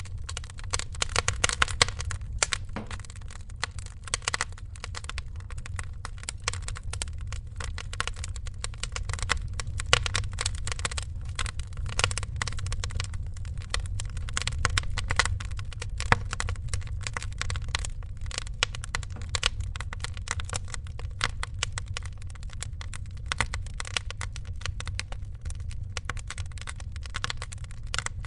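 Wood fire crackling: dense, irregular snaps and clicks over a steady low rumble.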